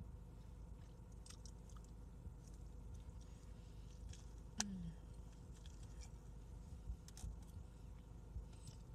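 A person chewing food close to the microphone, with faint wet mouth sounds. One sharp click stands out about halfway through.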